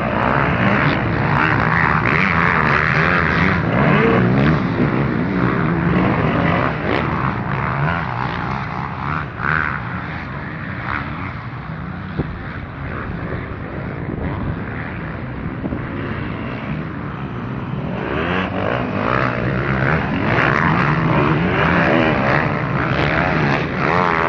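Motocross bike engines racing on a track, revving up and down as riders pass. The engines are loud in the first few seconds, fade somewhat in the middle, and grow loud again from about three quarters of the way through.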